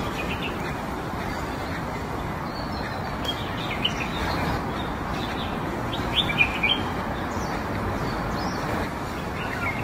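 Small birds chirping in short calls, a few around four seconds in and a quick cluster between six and seven seconds, over a steady background noise.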